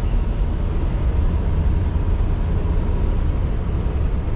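Scania R620's 16-litre V8 diesel pulling the truck along at a steady pace, heard from inside the cab as a steady low drone with road noise over it.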